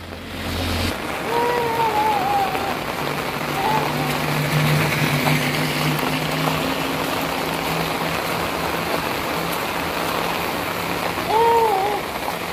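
Steady rain falling on a wet tarmac road and grassy verge. A low steady hum runs through the middle, and two short rising-and-falling calls sound, one about a second in and one near the end.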